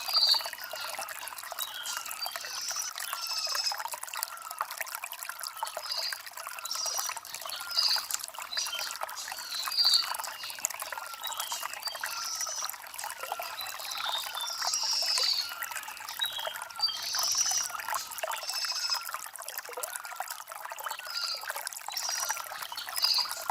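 Shallow stream water trickling and gurgling over stones, with birds chirping in short high calls every second or two.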